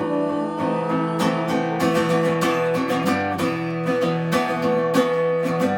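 Live acoustic guitar strummed in a steady rhythm, playing an instrumental break between sung lines of a song.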